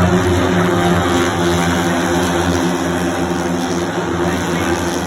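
Race motorcycle engines running at high revs on the circuit, a loud steady drone that barely changes pitch.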